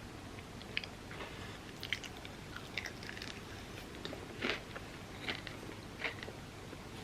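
Close-miked eating: chewing and biting with scattered crisp crunches, the biggest about four and a half seconds in, from overnight oats with a crunchy topping of set chocolate and pistachio kataifi.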